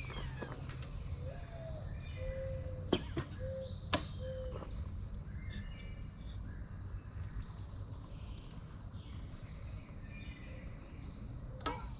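Outdoor nature ambience: short whistled animal calls, a run of about four low notes in the first few seconds and higher chirps, over a steady high insect hum and a low rumble, with a few sharp clicks.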